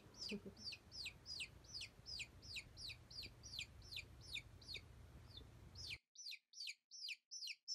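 Bird chirping: a quick, regular series of high chirps, each dropping in pitch, about three a second. A low steady hum beneath them cuts off about six seconds in.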